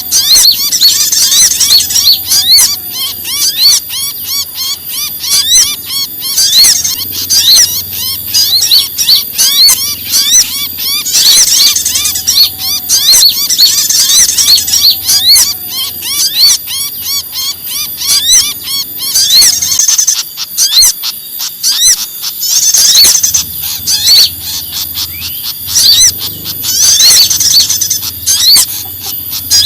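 A dense, loud mix of small songbirds' rapid, high-pitched agitated alarm and distress chirps, with brighter bouts of calling every few seconds: a bird-trapping lure recording of birds such as prinias and fantails in alarm.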